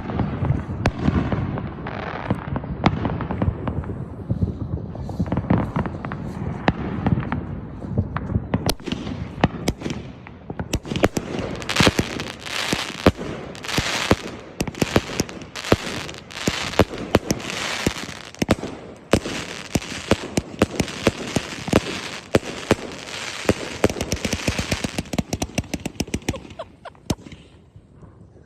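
A 102-shot consumer firework cake firing: a continuous string of sharp shots and bursts, several a second, with crackling breaks filling the high end in the second half. It ends in a rapid flurry of shots and then dies away.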